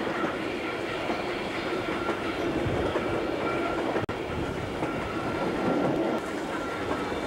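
Passenger coach of a steam-hauled train running at speed, with the steady rumble and clatter of its wheels on the rails heard through an open window. A very brief dropout about four seconds in.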